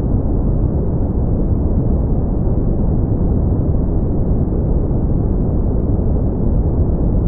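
Steady brown noise: an even, deep hiss, heaviest in the bass, with nothing high-pitched in it and no change in level.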